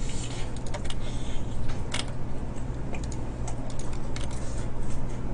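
Close-up chewing of a fried chicken drumstick: irregular clicks and smacks from the mouth at uneven intervals, over a steady low hum.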